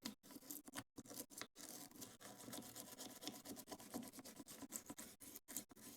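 Faint, irregular scratching and scrubbing of a small brush on a metal engine part, working carbon buildup off it.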